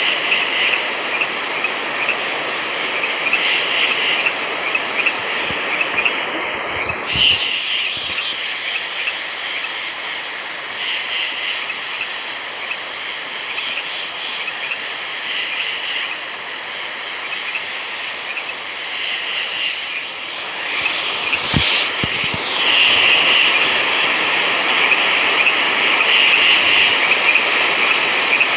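A dense night chorus of frogs calling continuously. The chorus swells in brighter surges every three to four seconds, and a couple of brief low knocks fall in the first and second halves.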